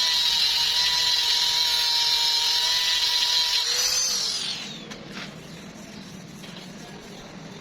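An electric power tool running at a steady high whine, switched off about four seconds in, its pitch falling as it winds down.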